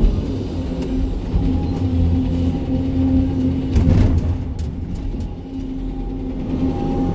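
Sany 305 excavator's diesel engine running steadily under working load, heard from the operator's cab. About four seconds in there is a louder stretch of clatter and knocks as the machine works rocky spoil.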